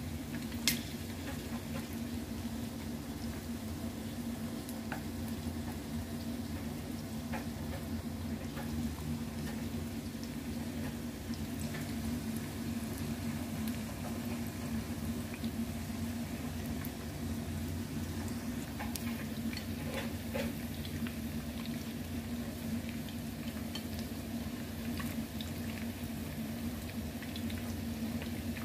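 Breaded chicken fillets shallow-frying in oil in a pan: a steady sizzle with scattered pops and light clicks, over a steady low hum. One sharp click comes about a second in.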